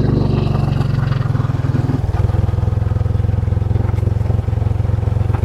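Motorcycle engine running as the bike rides along the road; its tone shifts about a second or two in, then settles into a steady low rumble.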